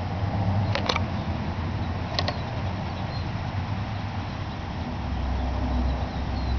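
Small homemade laminar-flow Stirling engine running, a steady low rumble with a fast mechanical flutter, fired by a charcoal burner that has weakened. Two sharp double clicks sound about a second in and again about two seconds in.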